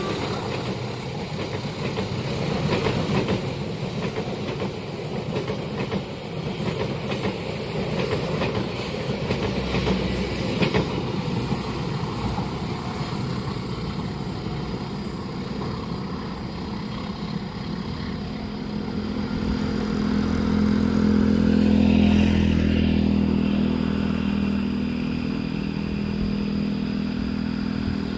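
A train running past with wheels clattering over the rails for the first dozen seconds, then a low engine hum that swells about two-thirds of the way in and fades a little.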